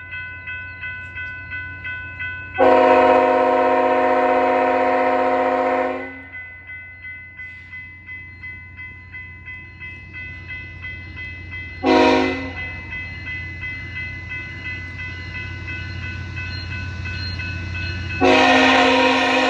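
Diesel freight locomotive's multi-note air horn sounding a long blast, a short blast and the start of another long blast over a rumbling approach, while a bell rings steadily about two to three times a second.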